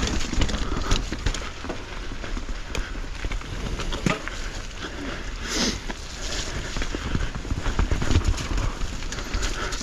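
Mountain bike riding over a rough trail: a steady run of knocks and clicks as the bike rattles over roots and rocks, with tyre noise on the dirt.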